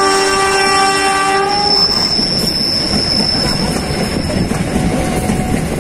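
Passenger train horn sounding one blast of about two seconds, a chord of several tones, over the continuous rumble of the train rolling along the tracks. A thin, high, steady squeal runs above it for a few seconds.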